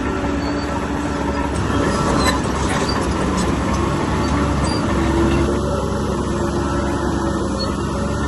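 Bulldozer's diesel engine running steadily under load, with its steel tracks clanking and squeaking; a cluster of clanks comes about two to three seconds in.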